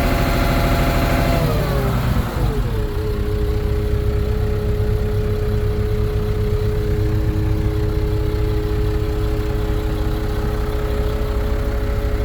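New Holland TS115 tractor's diesel engine held at raised revs, then dropping back about two seconds in and settling to a steady idle.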